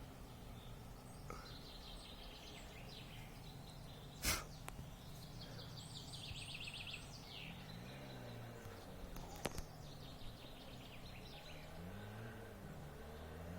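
Small birds trilling repeatedly, with a sharp click about four seconds in. From about halfway a distant motorcycle engine is heard faintly revving up and down: the two-stroke twin of an Izh Jupiter 5 running with its exhaust baffles removed.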